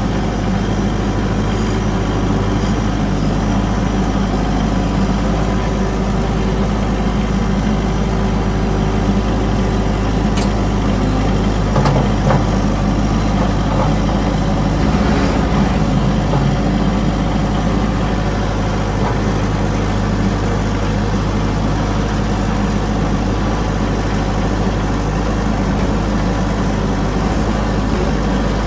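A heavy vehicle engine running steadily at low, even revs.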